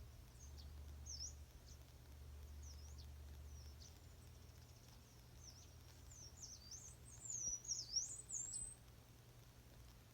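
Wild birds chirping in the morning: scattered short, high calls, with a quicker run of sweeping calls about two-thirds of the way in, over a faint low steady hum.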